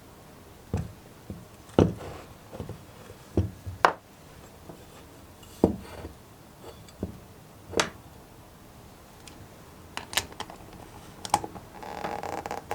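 Hand tools and metal parts being handled on a workbench: a dozen or so separate sharp knocks and clicks, then a denser rattling starts near the end.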